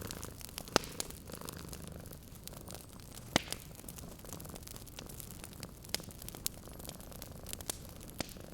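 Wood fire crackling in a fireplace, with irregular sharp pops, the loudest about a second in and again about three and a half seconds in. Under it runs the low, steady purr of a sleeping cat.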